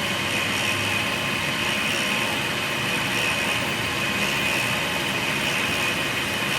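Steady engine-like running noise that holds even and unchanged throughout.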